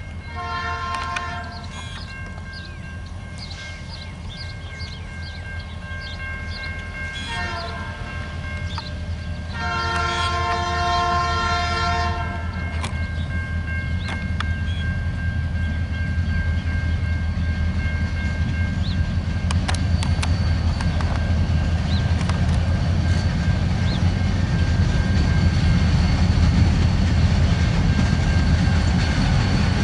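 CN freight train's locomotive horn sounding three times as the train approaches: a short blast near the start, another about seven seconds in, and a longer one around ten seconds in. Under it the low rumble of the locomotive and loaded freight cars grows steadily louder.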